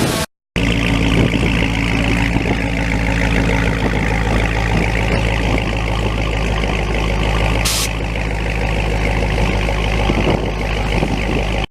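An engine idling steadily, a low even hum that holds its pitch, cut by a brief dropout just after the start.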